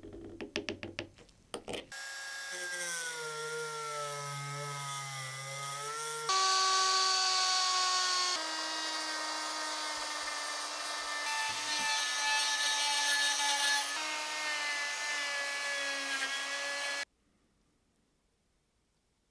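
A small electric power tool's motor whines steadily in several spliced takes, each at a different pitch and each cut off sharply, after a second of small clicks and taps. It stops abruptly near the end.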